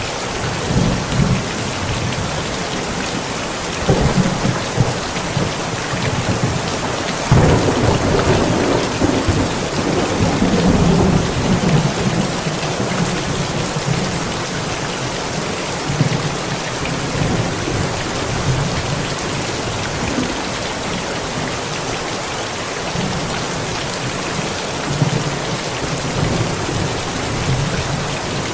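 Steady heavy rain falling, with thunder: a sudden clap about 4 seconds in, and a louder crack about 7 seconds in that rolls on as a rumble for several seconds.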